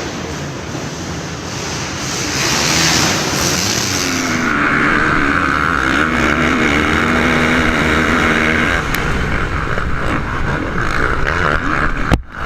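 Motocross dirt bike engines running, with a steady high-pitched drone setting in about four seconds in.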